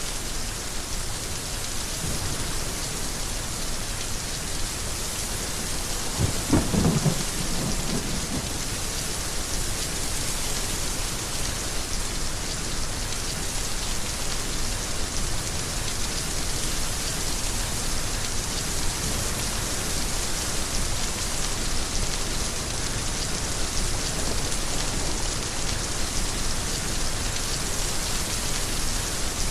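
Heavy rain falling steadily, with a crack and low rumble of thunder about six seconds in that fades over a couple of seconds.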